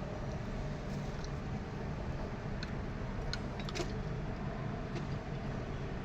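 Steady low mechanical hum, with a few light clicks in the middle, metal on metal.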